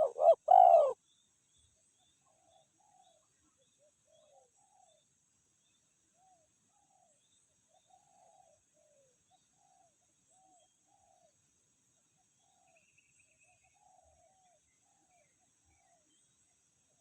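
Spotted doves cooing: a loud, close burst of coos in the first second, then many faint, short coos spread through the rest.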